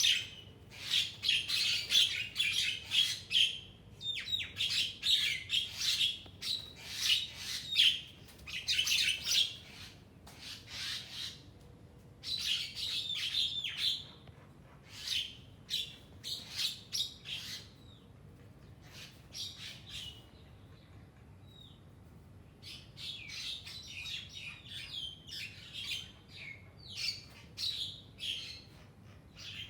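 Small pet birds chirping and squawking in fast runs of short, sharp calls as they squabble, with a quieter lull about two-thirds of the way through.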